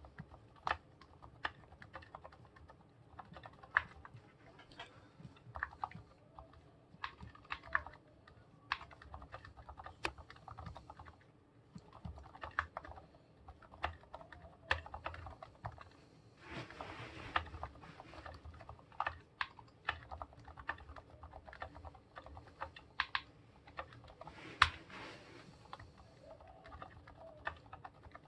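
Typing on a Monstargear Ninja 87 aluminium-case mechanical keyboard with fully lubed Gateron silent yellow linear switches: soft, irregular keystrokes, with a quick flurry of keys a little past halfway and one louder stroke near the end.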